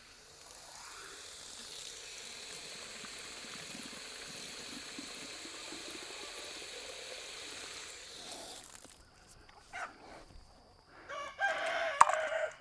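A steady hiss for about eight seconds, then a rooster crowing near the end.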